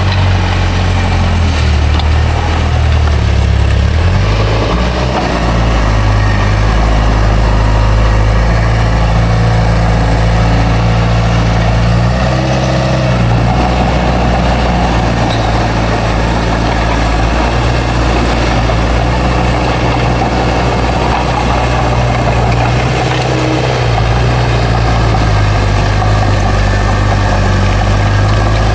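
Bulldozer's heavy diesel engine running steadily under load, its pitch shifting briefly a few times.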